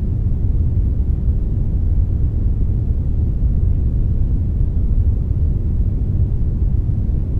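Steady synthetic brown noise blended with a little white noise: a deep, even rumbling hiss, strongest in the low end, with no changes.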